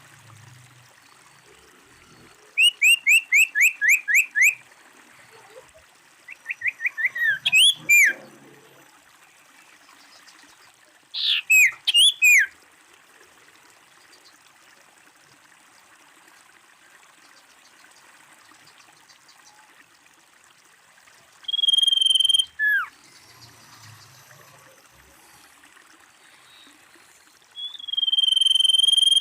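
Common iora calling: quick runs of short, sharply down-slurred chirps, then, later, two long high whistles, each held for about a second and dropping at the end.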